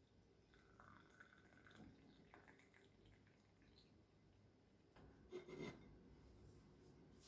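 Near silence: faint room tone with a few soft small clicks and rustles, and one slightly louder brief rustle about five seconds in.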